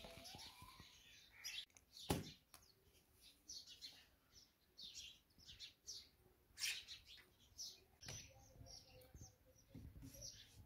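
Small birds chirping in short, repeated calls, with a few sharp knocks among them, the loudest about two seconds in.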